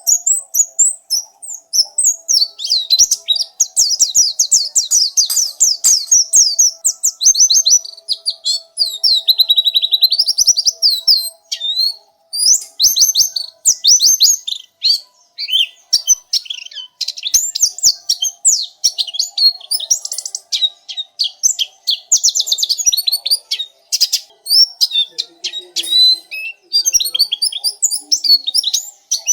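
Pleci (white-eye) singing a long, rapid, high-pitched twittering song of fast trills and chirps with short gaps, the kind of tutor recording played to train caged birds. A faint steady hum sits underneath.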